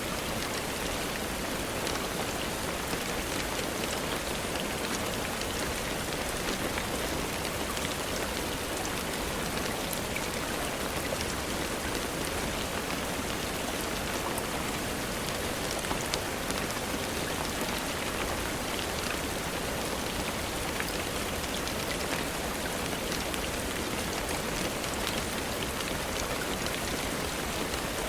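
Steady rainfall: an even, unbroken hiss with faint scattered drop ticks.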